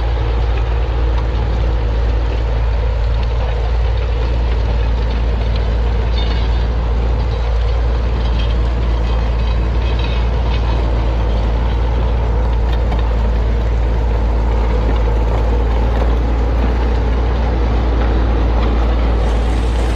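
Tractor diesel engine running steadily under load while pulling a plough, a constant deep drone with no change in pace.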